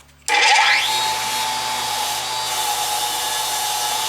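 A small power tool cleaning an old metal hand vise: the motor starts about a quarter second in with a short rising whine, then runs steadily with a high hiss over a steady whine.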